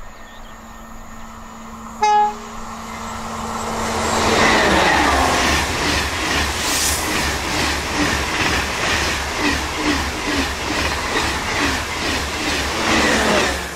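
Eurostar high-speed train sounding one short horn blast, then rushing past close by at speed, its wheels clacking in a regular rhythm about twice a second as the coaches go by. The sound cuts off suddenly near the end.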